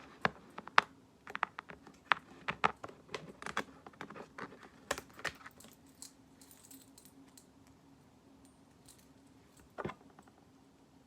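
Rapid light clicks and taps of long plastic press-on nails being handled and tapped against things, thinning out about six seconds in, with one louder click near the end.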